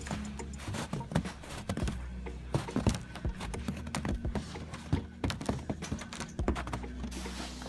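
Rapid, irregular clicks and taps, several a second, over faint background music.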